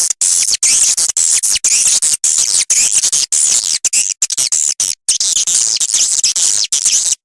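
Swiftlet lure recording for a swiftlet house: a dense chorus of high twittering chirps, each rising and falling, cut by brief dropouts about twice a second.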